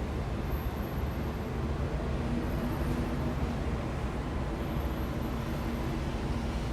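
Steady city traffic noise: a low, continuous rumble of vehicles with the faint drone of an engine, no single event standing out.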